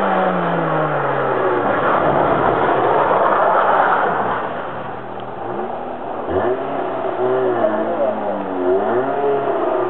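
Racing car engine sliding through a corner: the engine note drops as a rush of noise swells and fades, then from about six seconds in the engine revs up and down repeatedly under quick throttle changes.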